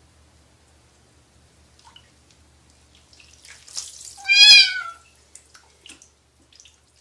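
A cat meowing once, a single wavering cry about half a second long a little past the middle, with a short noisy rustle just before it and a few faint clicks after.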